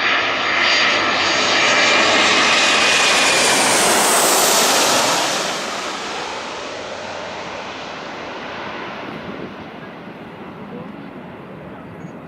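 Landing airliner passing low overhead: a loud engine rush with a high whine that builds in the first second, holds for about five seconds, then fades away.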